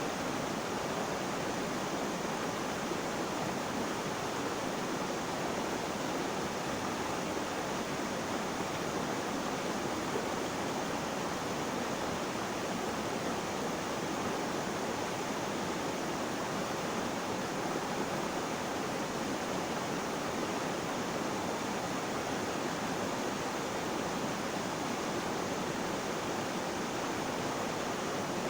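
Flowing water making a steady, even rushing sound, with no splashes or breaks.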